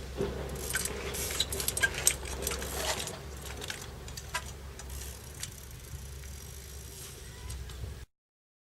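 Strong wind buffeting the microphone as a steady low rumble, with scattered clicks and rattles over the first few seconds; the sound cuts off suddenly near the end.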